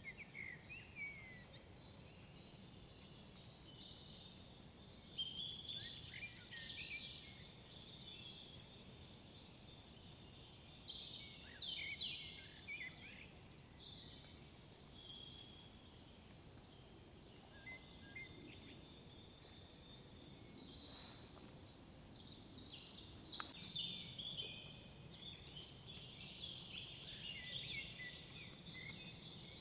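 Several woodland songbirds singing, with one high, trilled phrase repeating about every seven to eight seconds among other warbling and chirping calls.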